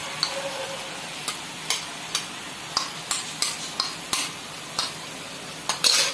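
Tomato-onion masala sizzling steadily in oil in a kadhai, fried to the point where the oil separates, while a steel spoon scrapes grated paneer out of a plastic bowl into the pan with a dozen or so sharp clicks and taps, the loudest near the end.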